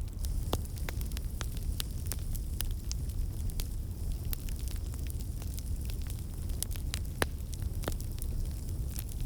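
A fire crackling in a fireplace: irregular sharp crackles and pops over a steady low rumble of flame. The loudest pop comes about 7 seconds in.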